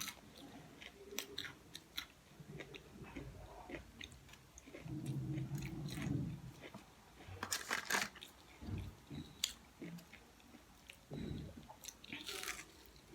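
Close-up chewing and biting of food, with wet mouth clicks and a few sharper crunches, the strongest about two-thirds of the way in and near the end. A low murmur comes about five seconds in.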